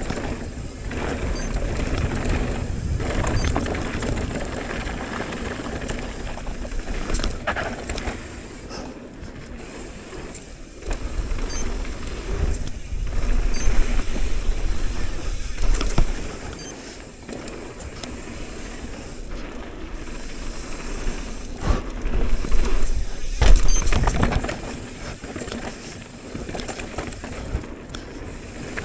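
Mountain bike descending a dirt downhill trail: tyres on dirt and rock with rattling and knocks from the bike, in an uneven rumble. It gets louder in stretches, in the middle and again about three quarters through.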